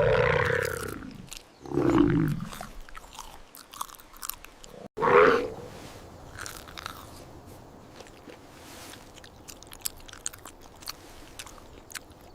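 Chewing and crunching of food: three loud bites in the first five seconds, then a string of small, quieter crunches.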